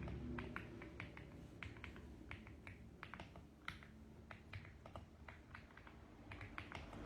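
Mechanical keyboard typing: an uneven, quick run of soft key clicks, several a second.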